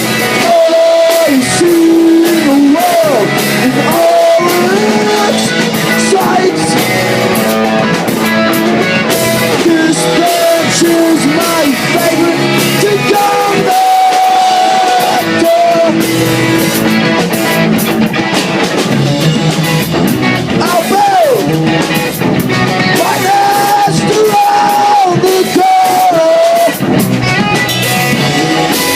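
Live rock band playing a song, a singer's voice carried over loud guitars.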